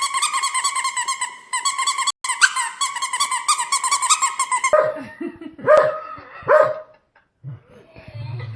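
A high-pitched, rapidly pulsing squeal through the first half, then a dog barking three times about halfway through.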